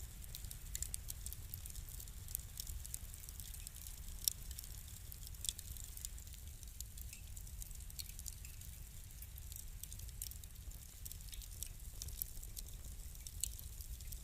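Wood fire crackling: irregular sharp pops and snaps over a low steady rumble, the two strongest pops about four and five and a half seconds in.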